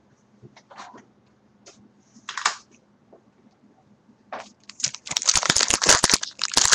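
Trading cards and their packaging being handled: a few light clicks and rustles, then from about five seconds in a dense, rapid crinkling rustle.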